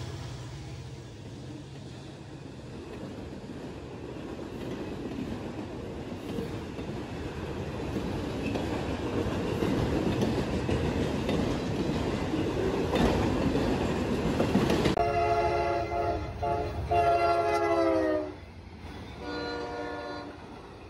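Autorack freight cars rolling past on jointed rail, the wheel and rail noise building. About fifteen seconds in, a passing Amtrak train's multi-chime air horn sounds loudly, its pitch dropping as it goes by. A second, lower blast follows near the end.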